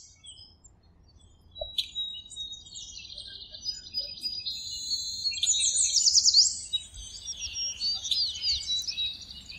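Several birds chirping and singing, with overlapping high calls, trills and quick falling whistles. It starts sparse and grows busiest a little past the middle.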